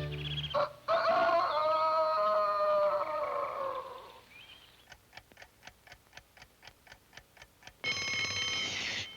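A clock ticking, about five ticks a second, then an alarm clock bell ringing for about a second near the end. The ticking is preceded by a few seconds of sustained orchestral music.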